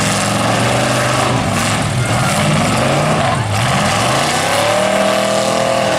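Pickup truck engines revving hard under load, their pitch rising and falling again and again as the trucks shove and ram each other.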